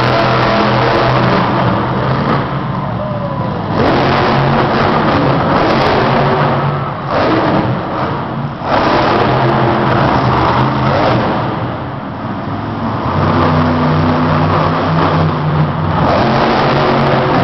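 Monster truck's supercharged V8 engine revving hard, surging and easing off a few times.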